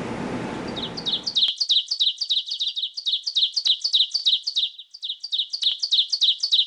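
A small bird chirping in a fast, even string of short, high chirps, about five a second, starting about a second in with one brief pause after about four seconds.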